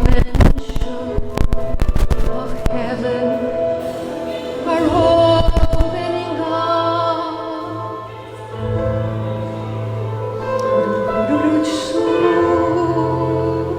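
Live worship music: singing voices over sustained chords, with drum and cymbal hits that stop about six seconds in.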